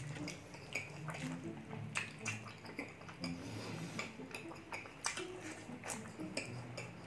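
Close-up eating sounds of braised pork leg: wet chewing, lip smacks and mouth clicks, with light clicks and scrapes from fingers picking at rice on the plate.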